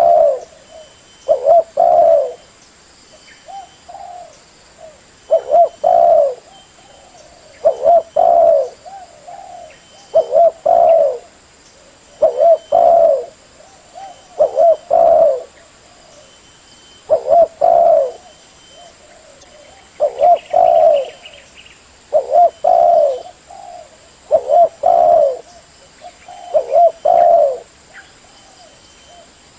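Spotted dove (tekukur) cooing: a short phrase of several coo notes repeated about every two seconds, with a few quieter phrases in between.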